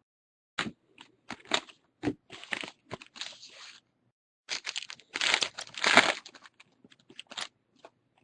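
Plastic trading card pack wrapper being torn open and crinkled by hand, in two bouts of crackling.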